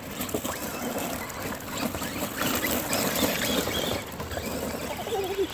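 Traxxas Rustler VXL RC trucks driving through mud and gravel, tyres spinning and spitting rocks and mud with a busy pattering crackle, easing briefly about four seconds in.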